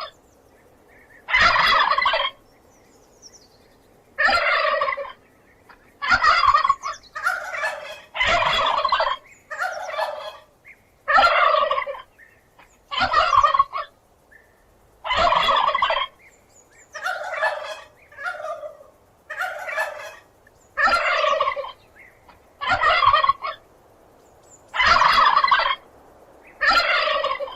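Turkey gobbling over and over, a run of about sixteen short warbling gobbles, each under a second, with brief pauses between them.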